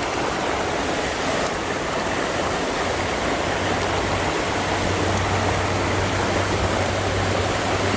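Creek water rushing steadily around the wading angler. A faint low hum comes in about three and a half seconds in.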